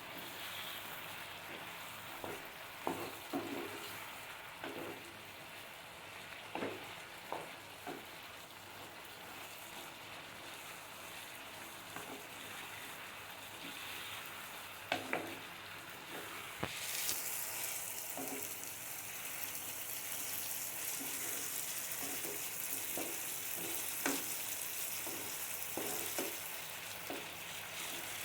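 Chicken and masala frying in a kadai, sizzling steadily while a spoon stirs and scrapes with occasional knocks against the pan. About seventeen seconds in, the sizzle grows louder.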